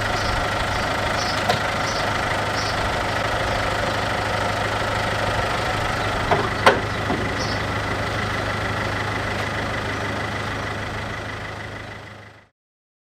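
MINI R56's 1.6 HDi DV6 four-cylinder diesel engine idling steadily, with one sharp click about six and a half seconds in. The sound fades away near the end.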